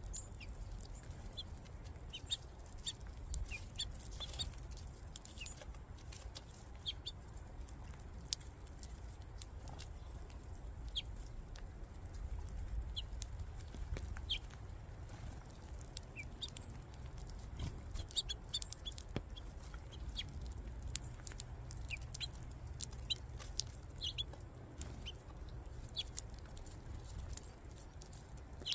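Scattered drips or taps with frequent short chirps from birds at a feeder, over a steady low rumble.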